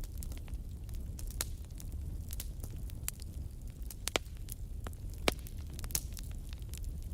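Campfire crackling: irregular sharp pops and snaps of burning wood over a steady low rumble, with two louder pops around the middle.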